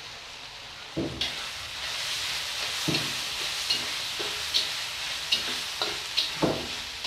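Loitta shutki masala sizzling in a wok as a spatula stirs and scrapes it, frying it down with small additions of water. The sizzle jumps up about a second in, after a knock, and sharp scrapes and knocks of the spatula on the pan come about once or twice a second.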